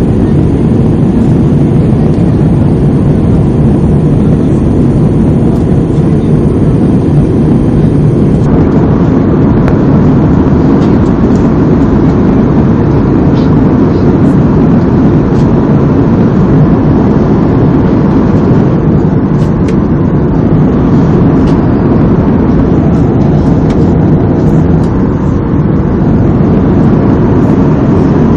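Steady, loud engine and air noise inside a jet airliner's cabin during the climb after takeoff. A faint high whine stops about a third of the way in.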